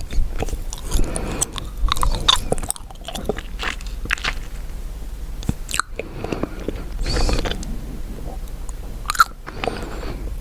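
Chewing gum close to the microphone: irregular wet smacks and clicks.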